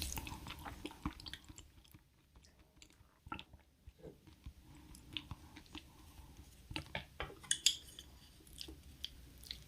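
Close-up chewing and mouth sounds from someone eating, with scattered soft clicks and small crunches. There is a quieter lull about two seconds in and a cluster of sharper clicks near the end.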